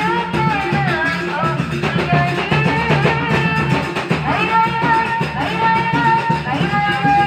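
Live band music: a singer holding long, wavering notes over drums and plucked strings.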